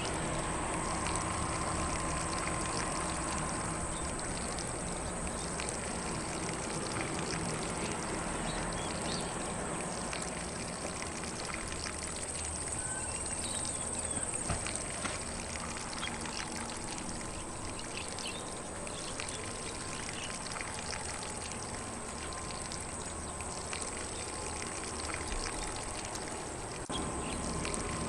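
Lawn sprinkler spraying water across grass in a steady, even hiss, with faint bird calls now and then.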